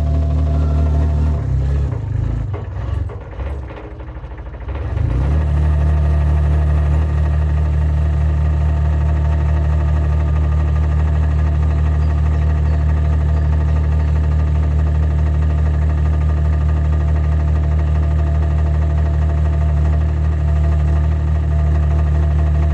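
Site dumper's engine running. Its speed and level waver unevenly for the first few seconds, then it settles into a steady run.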